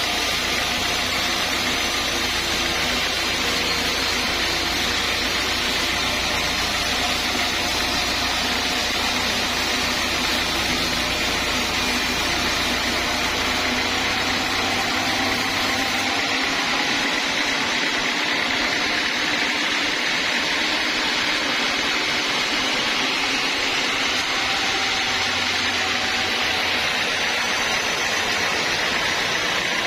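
Sawmill machinery running steadily. About halfway through, the deepest rumble drops away while the rest of the sound carries on.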